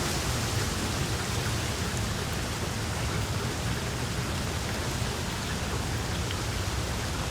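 Small wood fire in a fireplace crackling, a steady dense hiss of crackle with a few faint sharp pops.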